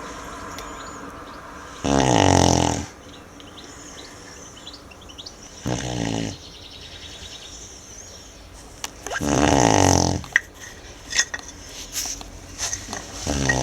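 Tibetan Mastiff snoring in its sleep: slow, deep snores about every three to four seconds, the second one weaker, with the last starting near the end. A few short sharp clicks come between the last two snores.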